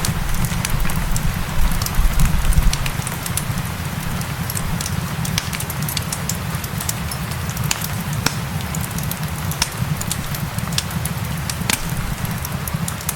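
Wood fire crackling, with many sharp pops scattered over a steady hiss of rain and a low rumble that is heaviest in the first few seconds.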